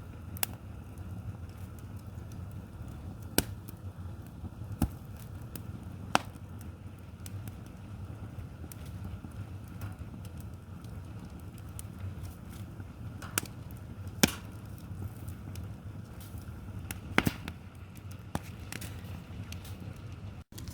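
Firewood burning in an open wood fire: sharp pops and snaps every few seconds over a steady low rumble.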